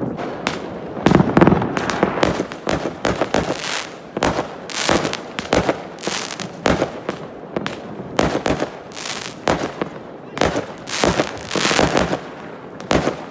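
Fireworks going off: a rapid, irregular run of sharp bangs and crackles, with dense clusters a little after the start and again near the end.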